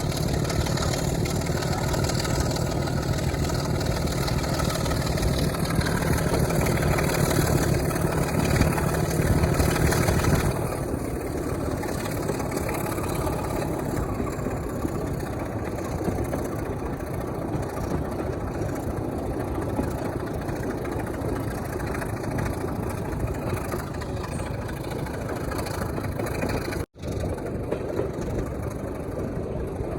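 Diesel locomotive engine running, loud with a strong low note for the first ten seconds or so, then easing off to a quieter steady run. The sound drops out for an instant near the end.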